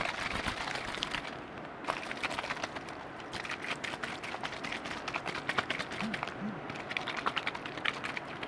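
Close-miked liquid sounds: a dense, irregular run of small wet clicks and crackles.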